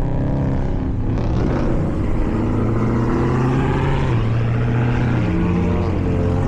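Car engines running at a car meet, their steady pitch shifting up and down as they rev.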